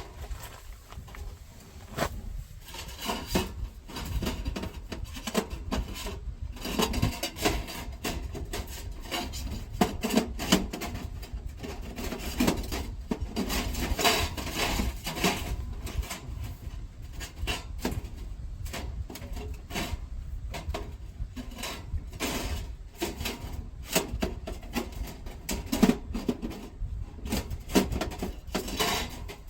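Firewood and metal wood-stove parts being handled: irregular knocks, clatter and rubbing that go on without a break.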